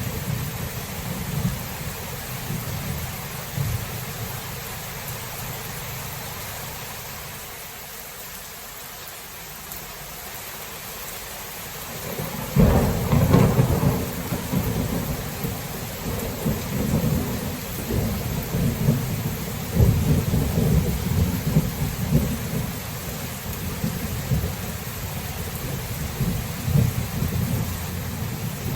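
Thunderstorm: steady rain with rolling thunder. An early low rumble fades away, then a loud thunderclap comes about twelve seconds in, followed by rumbling that swells and dies back several times for about ten seconds.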